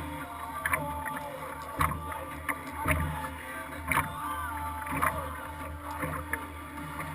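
Kayak being paddled, heard from a camera mounted on the hull: paddle strokes and water splashing about once a second over a steady low rumble of water against the hull.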